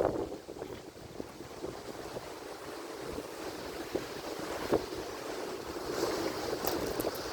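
Atlantic Ocean surf washing steadily, with scattered crackles. A breaking wave's hiss swells about six seconds in.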